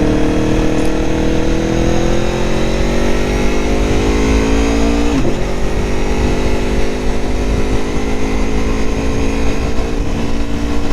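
Aprilia Tuono motorcycle engine pulling under acceleration, its pitch rising steadily. About five seconds in it breaks off and drops in an upshift, then climbs again in the next gear. Wind rumbles on the microphone underneath.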